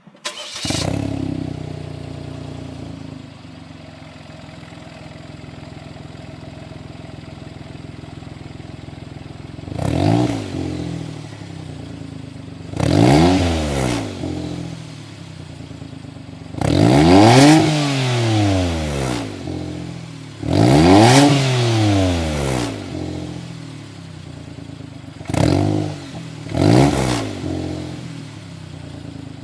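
Daihatsu Copen engine breathing through a Tanabe Medalion g-FORDAN aftermarket muffler: it starts, runs at a raised idle that drops back after a few seconds, then settles into a steady idle. It is blipped six times, each rev rising and falling in pitch, the third and fourth held longer.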